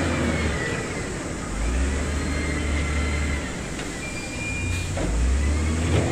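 Diesel engine of heavy earthmoving machinery running under load, its low note swelling and easing about three times, with faint high squeals over it.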